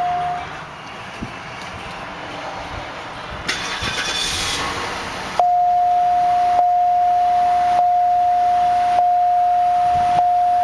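A steady, high-pitched electronic warning chime from the car. It cuts off about half a second in and comes back about five seconds in, with slight breaks about every second. A quieter stretch with a brief rustle comes between.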